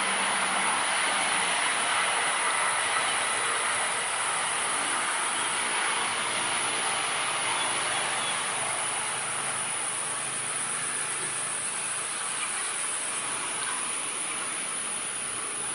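Steady insect chorus: a continuous high-pitched buzz over a broad hiss.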